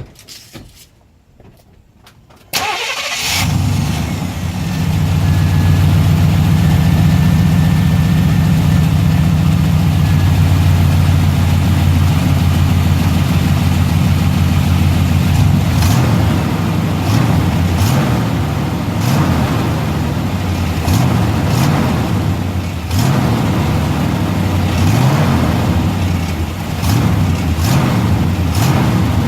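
1990 Chevrolet K1500's 5.7-litre 350 V8 starting up about two and a half seconds in, then running steadily; the engine has an exhaust leak. From about halfway, short sharp clicks recur roughly once a second over the running engine.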